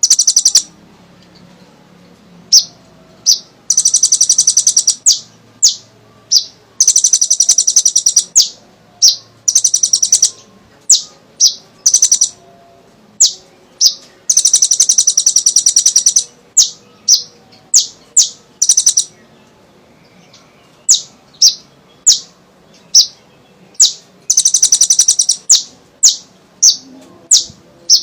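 Kolibri ninja sunbird singing: sharp, high-pitched single chirps spaced out, broken several times by rapid trills of one to two seconds each.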